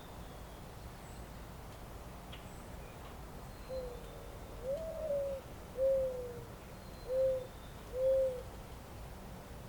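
A pigeon cooing: one phrase of five low coos, the second rising in pitch and the last three short and evenly spaced, with faint high bird chirps behind it.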